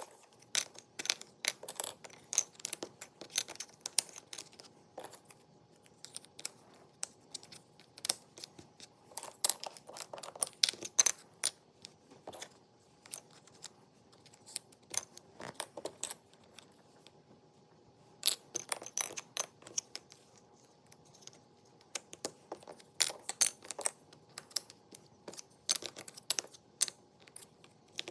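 Jigsaw puzzle pieces being handled and fitted together: a busy, irregular run of small sharp clicks and taps, with a short lull about two-thirds of the way through.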